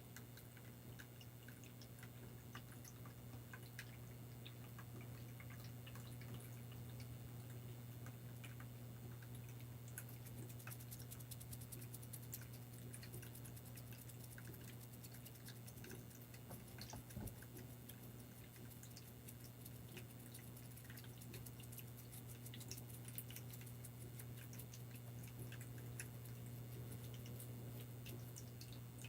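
Faint water dripping and trickling, with scattered light clicks over a steady low hum; the clicks grow thicker about a third of the way in.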